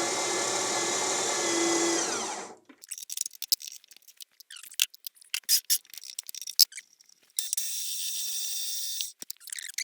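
An electric machine-tool motor runs steadily and winds down about two and a half seconds in. Scattered clicks and taps of metal parts follow, then a second, thinner motor whir lasts about a second and a half near the end.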